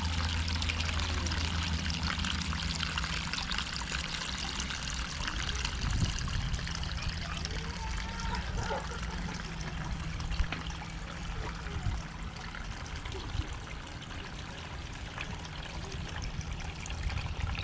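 Water from a garden pondless waterfall pouring and trickling steadily over stone ledges at the lower of its two falls, down into a cobble-covered sump.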